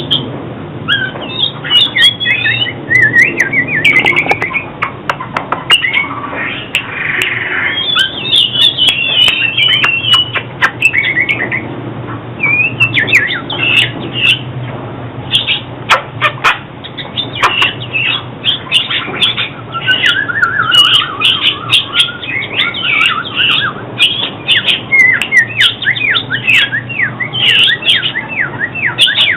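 Oriental magpie-robin singing a run of varied whistled and warbled phrases, one after another with short pauses.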